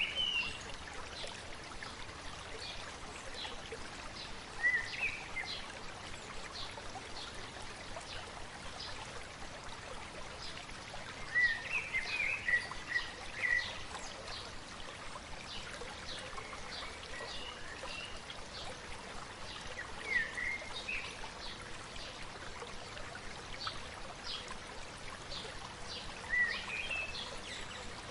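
A stream babbling steadily, with a small bird singing short chirping phrases every few seconds, a longer run of them about eleven to fourteen seconds in.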